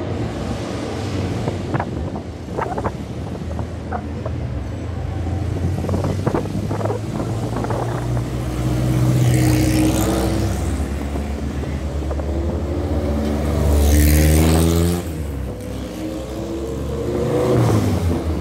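Race-prepared Volkswagen Fusca (Beetle) air-cooled flat-four engines running and revving, the pitch climbing and falling. The sound swells loud twice, about halfway and again a few seconds later, and grows again near the end as a car rolls up close.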